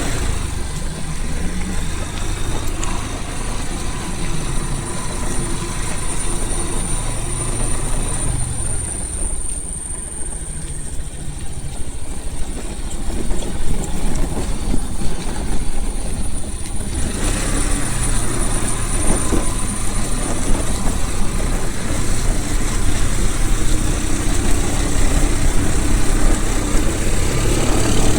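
A vehicle's engine running with a continuous low rumble and road or wind noise, thinning out briefly in the middle and filling out again about two-thirds of the way through.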